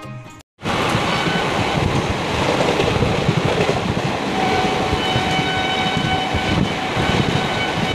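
Music cuts off in the first half second. Then loud, steady train running noise follows: wheels rumbling and clattering on the rails beside a long line of open freight wagons. A few faint, steady high tones join about four seconds in.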